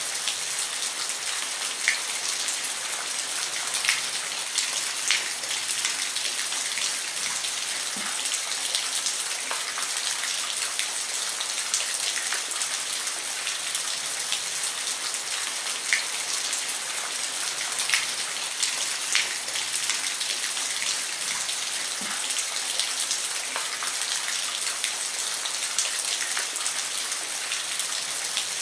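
Steady rain falling on a roof: an even hiss with scattered louder drips ticking every second or two.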